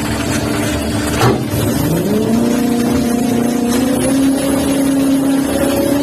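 Machinery aboard a fishing vessel running with a steady hum. A knock comes a little over a second in, then the motor's whine rises in pitch and settles at a higher steady tone.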